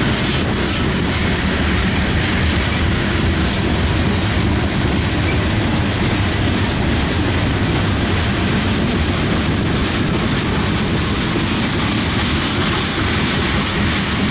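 A train rolling past, its railcar wheels clattering steadily over the rails.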